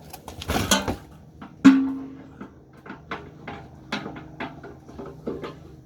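Metal knocks and clicks from handling parts and tools on an engine's open bottom end, with one sharp clang about one and a half seconds in that rings briefly on a single tone. A steady low hum runs underneath.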